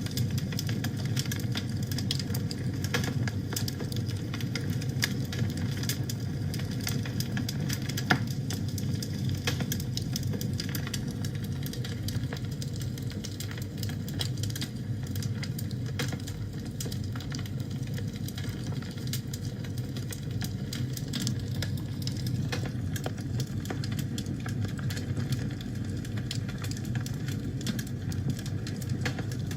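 Wood fire burning in a fireplace: a steady low rush of the flames with frequent small crackles and pops, one sharper pop about eight seconds in.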